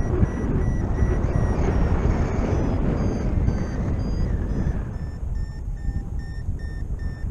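Paragliding variometer beeping, short high beeps about three a second that slow a little and drop slightly in pitch after about five seconds: the climb tone that signals the glider is rising in lift. Wind rushes over the microphone throughout, easing somewhat in the second half.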